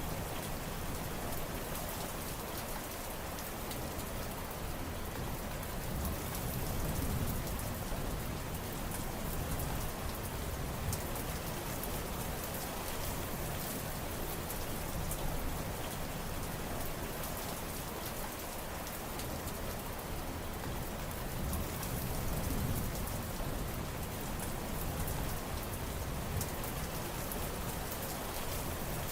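Steady rain falling, a dense hiss of drops pattering on surfaces with small swells in intensity.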